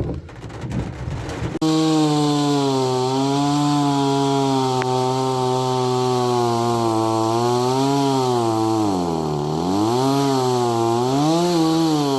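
Two-stroke chainsaw engine running at part throttle. The engine note drops sharply and climbs back up twice between about eight and eleven seconds in, as the throttle is eased off and opened again.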